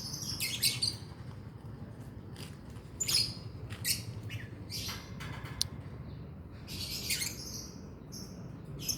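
Lovebirds chirping and squawking in a few short, shrill bursts with pauses between them.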